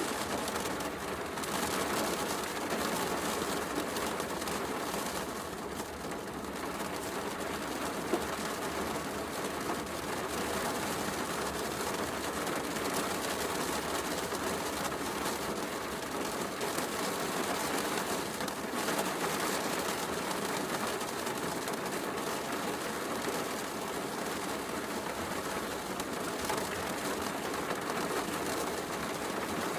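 Steady heavy rain with a wood fire crackling, and one sharp pop about eight seconds in.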